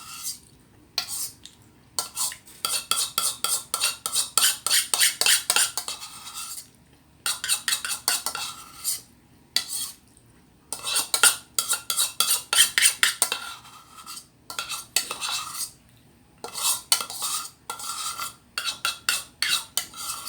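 Metal spoon scraping and clinking against a container in quick bursts of a second or two with short pauses: scooping out the last of a serving of ice cream.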